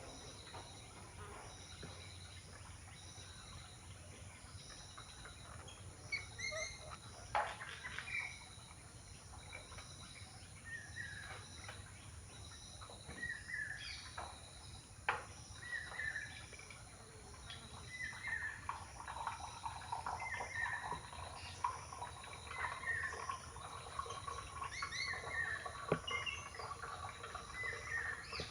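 Small birds chirping in short, falling calls, repeated many times, over a high insect-like pulse that repeats about once a second, with a few sharp clicks.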